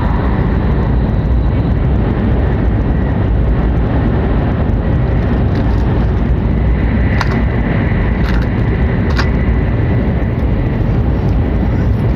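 Hokuriku Shinkansen E7/W7-series train running at speed, heard from inside the passenger car: a steady, loud low rumble of running gear and air with a faint steady high whine. Three short clicks come about seven to nine seconds in.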